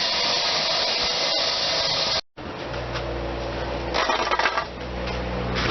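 Concrete-cutting saw running steadily, cutting off suddenly about two seconds in. After that comes a lower steady hum with a few short knocks and handling noises.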